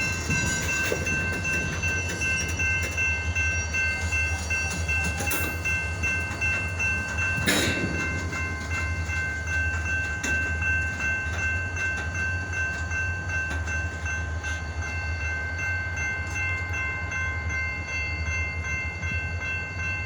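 EMD GP-series diesel locomotives running with a steady low rumble and a steady high-pitched whine over it. There is a single sharp clank about seven and a half seconds in.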